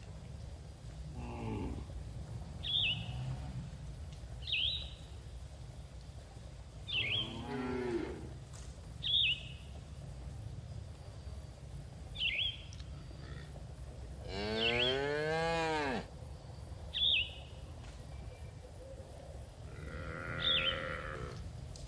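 Cattle mooing four times; the loudest is a long moo of about a second and a half, two-thirds of the way through. A bird repeats a short, sharp chirp about every two seconds throughout.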